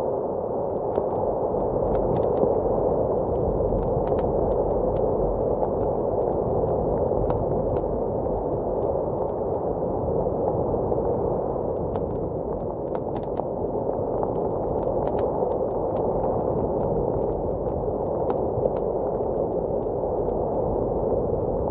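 Steady, muffled rush of blizzard wind, with sparse sharp pops and crackles of a wood fire scattered over it.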